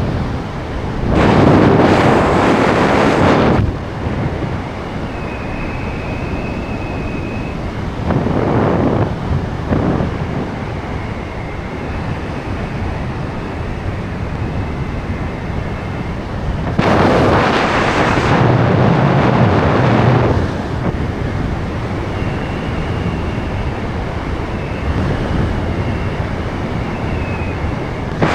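Wind rushing over the microphone during the descent, with three louder gusting surges and a faint wavering whistle in the quieter spells between them.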